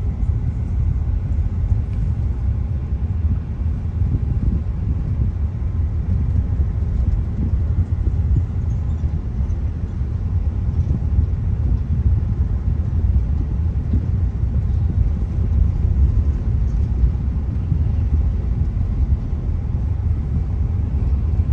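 A car driving along a road: steady low rumble of engine and tyre noise.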